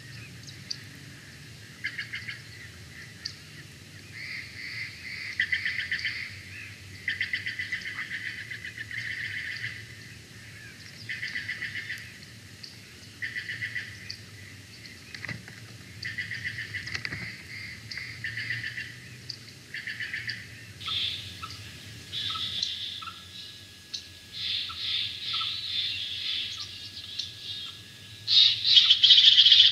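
Birds calling: a long string of short bursts of rapid chattering notes, each about a second long and coming every second or two. Near the end comes a louder, higher burst of calls.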